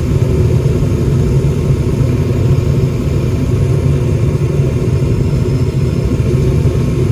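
Goodman gas furnace running with its burners lit and blower on: a steady low rumble of burner flame and blower air. The top burner flame is misbehaving with the blower running, which the technician takes as a sign the furnace's heat exchanger has failed.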